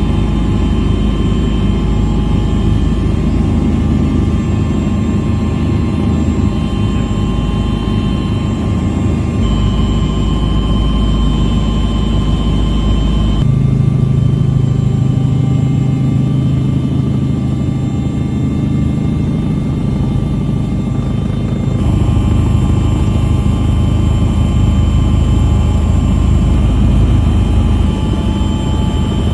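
Steady helicopter engine and rotor drone, heard loud, with a constant hum and whine. Its pitch and balance shift abruptly a few times through the stretch.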